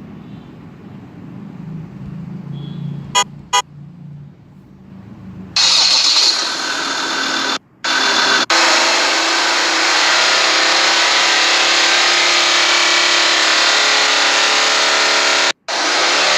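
Ford Endeavour SUV's engine and exhaust: a low, quiet idle with two quick beeps about three seconds in, then from about five and a half seconds a much louder, steady hissing exhaust note close to the microphone, with brief dropouts.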